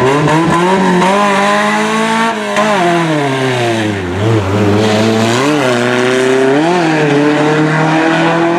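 Car engine revving: the pitch climbs for about two seconds and falls away, then three short throttle blips about a second apart, then a slow climb again near the end.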